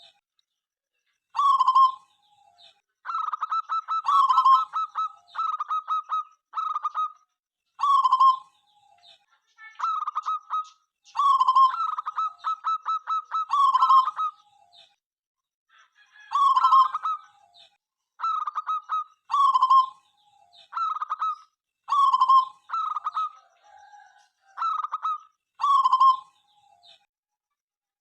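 Zebra doves (perkutut) cooing: short phrases of rapid stuttering coos that end in a held note, repeated every second or two with brief gaps between them.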